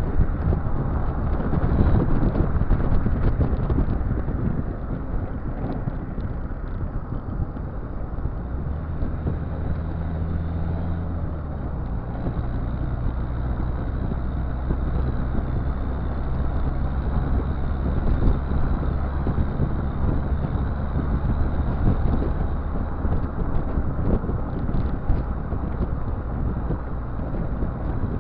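Exhaust of a Citroën Visa's swapped-in XUD7TE turbo diesel engine running steadily, a low drone whose pitch shifts slightly a few times.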